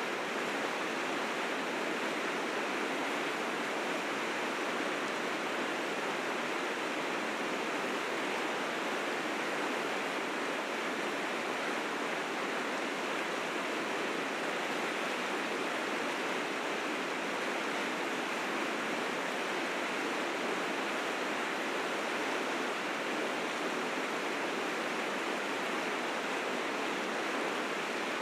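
River rapids running in spring flood with snowmelt: a steady, dense rush of water with no breaks.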